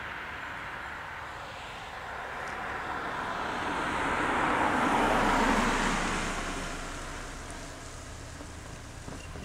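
A road vehicle passing close by, its tyre and engine noise rising to a peak about five seconds in and then fading away.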